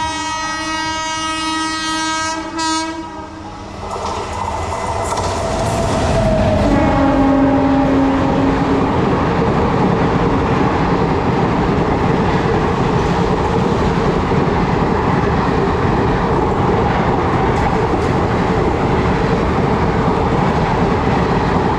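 Train horn sounding, a long blast with a short break near the start, then a second, lower horn note about seven seconds in. Under and after it, the passenger train's wheels run over the track with a loud, steady rumble and clatter.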